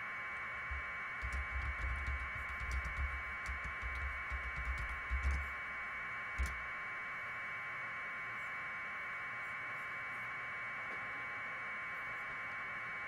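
Steady static hiss from a live broadcast feed. Between about one and five and a half seconds in, a run of low bumps and faint clicks sits under the hiss, and one more bump comes a second later.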